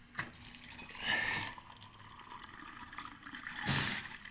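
Coffee pouring and trickling from a workshop-built CNC coffee machine into a mug. A louder gush comes about a second in and another near the end, with a sharp click just after the start.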